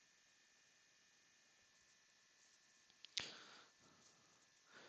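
Near silence, broken by one faint click about three seconds in and a faint rustle just before the end.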